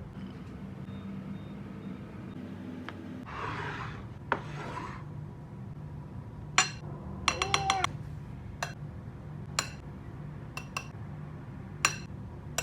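Kitchen utensils at work: a scrape about three and a half seconds in, then scattered clicks and a quick run of ringing clinks, like metal against a dish, over a steady low hum.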